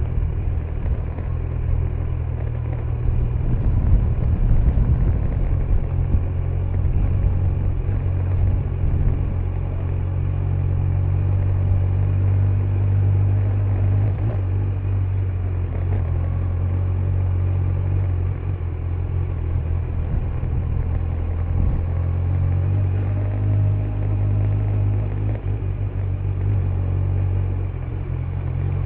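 Kawasaki Z900's inline-four engine on its stock exhaust running steadily under way, a deep low rumble that swells briefly about four seconds in.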